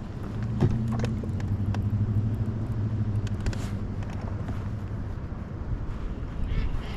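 A steady low motor hum that fades out about halfway through, with a few faint clicks over it.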